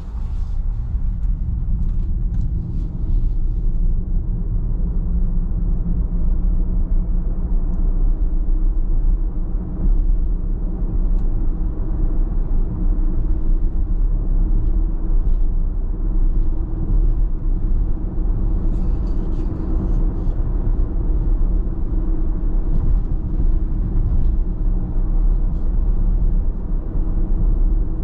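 A car driving at a steady pace: a constant low rumble of tyres and engine, with a few faint ticks on top.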